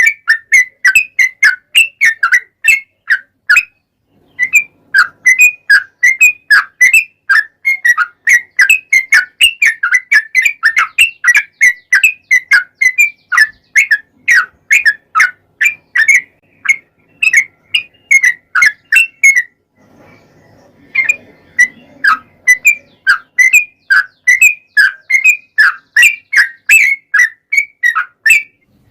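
Yellow-vented bulbul (trucukan) singing a long, fast series of short, sharp whistled chirps, about three a second, pausing briefly twice.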